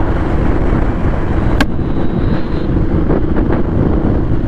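Royal Enfield Classic 350's single-cylinder engine running steadily as the motorcycle is ridden, with wind rushing over the microphone. One sharp click about one and a half seconds in.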